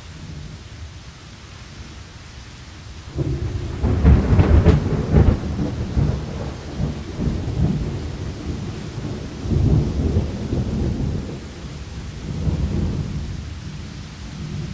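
Steady rain with a thunder peal that breaks suddenly about three seconds in. The peal is loudest with a crackle a second later, then rumbles on in further swells before dying away near the end.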